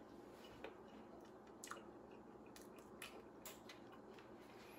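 Faint chewing of a bite of razor clam meat, with a few soft clicks from the mouth scattered through.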